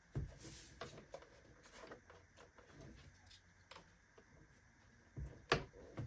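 Scattered light clicks and knocks from handling a portable jump starter and its plug-in cable, with the sharpest pair of knocks near the end.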